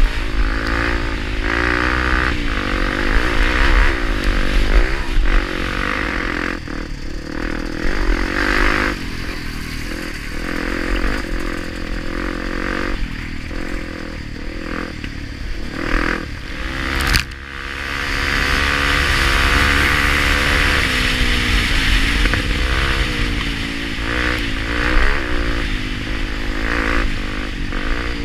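Honda Tornado 250 single-cylinder four-stroke enduro motorcycle engine revving up and down under riding, with the bike clattering over rough ground. A sharp knock comes about 17 seconds in, and the engine briefly drops off after it.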